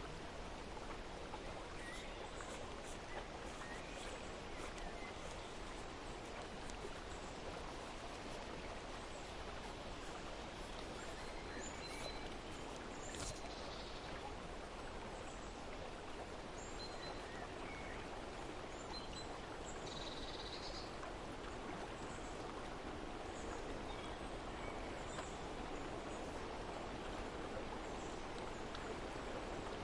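Steady rush of flowing water, with scattered short bird chirps above it, a clearer one about two-thirds of the way through.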